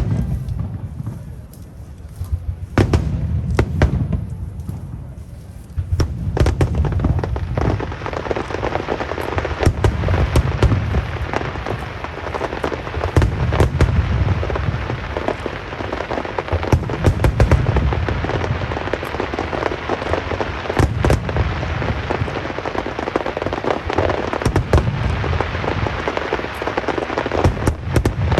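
Aerial fireworks display: shells bursting in repeated deep booms with sharp cracks, and from several seconds in a continuous crackling hiss of glittering effects beneath them.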